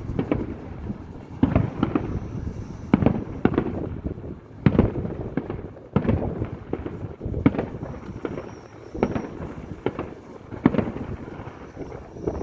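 Aerial fireworks shells bursting in a steady string of sharp bangs, about one every second or so, each trailed by a rolling echo, with a faint high whistle now and then between them.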